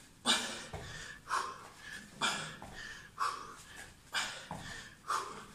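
A man breathing hard from exertion during a boxing workout, with a sharp exhalation about once a second.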